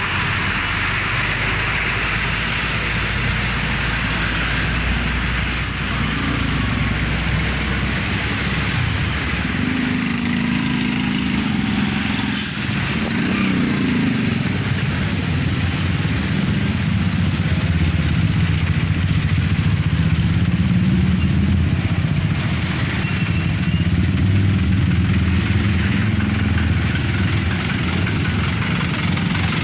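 Heavy, slow-moving road traffic: engines of buses, trucks and motorcycles running and idling close by, with a steady low engine hum over road noise that grows a little louder about halfway through.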